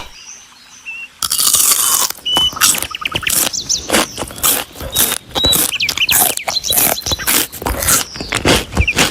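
A dense run of quick clicks and scratching starts about a second in, with short high bird-like chirps scattered through it.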